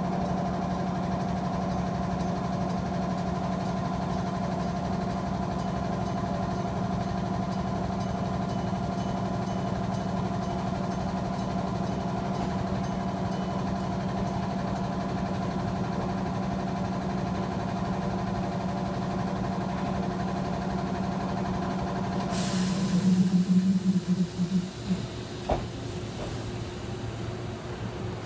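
Electric commuter train of the 6000 series at the platform, with a steady hum of its running equipment, then a sudden loud burst of air hiss from the brakes about 22 seconds in as it comes to a stop, followed by a few irregular knocks.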